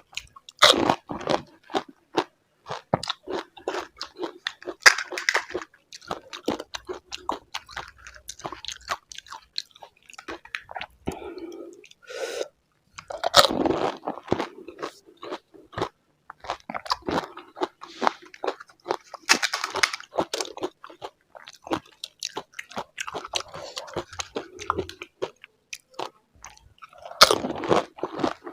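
A person biting into and chewing pani puri, the crisp hollow fried puri shells cracking with repeated irregular crunches.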